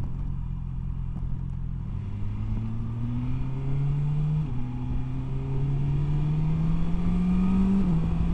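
BMW S1000XR's 999cc inline-four engine accelerating hard through the gears. The engine note climbs steadily in each gear and drops abruptly three times as the quick shifter snaps through clutchless upshifts.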